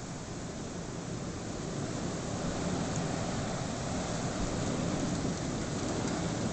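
Blizzard wind roaring, a steady rush of noise that grows louder about two seconds in.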